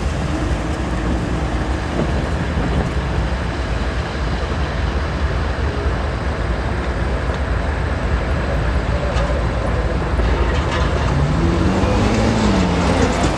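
Norfolk Southern freight train's lead diesel locomotive approaching slowly, its engine giving a steady, continuous low rumble.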